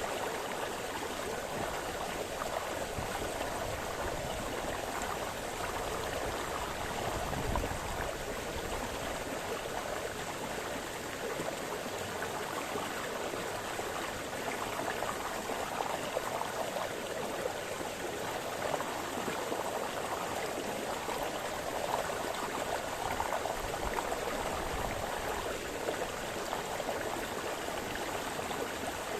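Small brook splashing and babbling over stones, a steady rush of water with slight uneven flutter.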